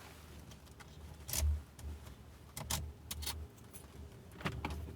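Metal car key and key fob clinking, with a few separate sharp clicks and knocks as the key is worked in the glove compartment lock.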